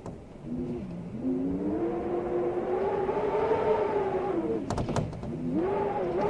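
Storm wind howling in gusts: a pitched, moaning tone that rises and falls, dips briefly about five seconds in and swells again, with a few sharp clicks just before the dip.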